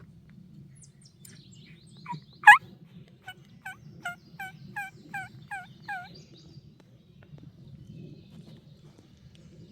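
Wild turkey calling: one loud sharp note about two and a half seconds in, followed by a run of about eight yelps, each sliding down in pitch, a little under half a second apart.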